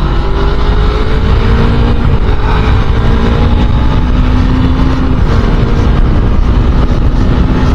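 Suzuki Inazuma 250 twin-cylinder motorcycle engine under way, its note rising steadily as it pulls for about five seconds and then holding steady at speed, with heavy wind rush over the rider's microphone.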